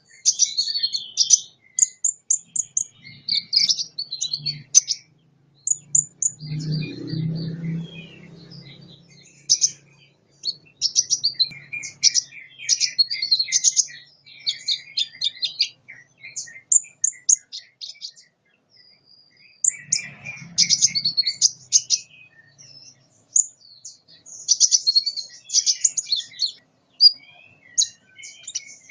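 A sunbird singing: rapid, high-pitched chirps and trills in phrases separated by short pauses.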